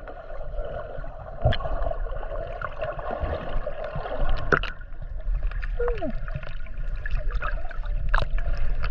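Water gurgling and splashing over a steady drone, with scattered sharp clicks and knocks.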